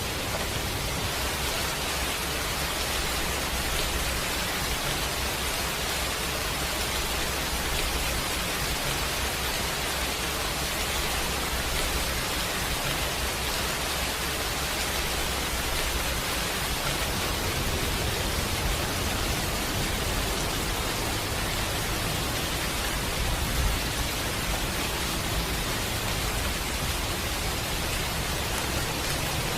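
Steady rain, an even hiss, with a low rumble beneath it; one brief louder knock about 23 seconds in.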